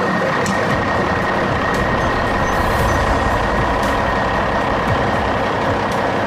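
A steady, truck-like vehicle engine sound with a thin continuous high tone over it and a few small clicks.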